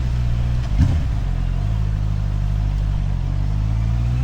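Motorcycle engine running steadily at low revs while riding, over a haze of wind and tyre noise on wet road. A short thump comes about a second in, and the engine note rises gently near the end as it picks up speed.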